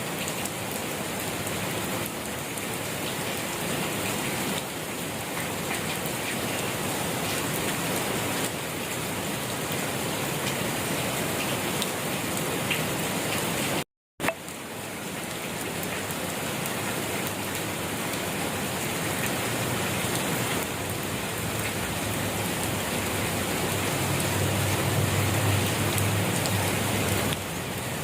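Steady rain falling on a surface, an even hiss with scattered drop patter. About halfway it cuts out to silence for a split second, and a low rumble rises under the rain near the end.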